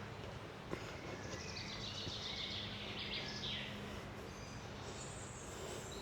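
A small songbird singing a fast run of high notes that falls in pitch, starting about a second in and lasting around two seconds, with another faint high note near the end, over quiet woodland ambience.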